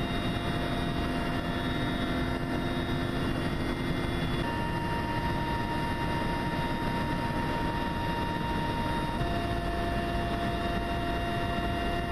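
Steady, loud engine drone with a constant hum in it; the hum's pitch changes suddenly twice, about four and a half and nine seconds in.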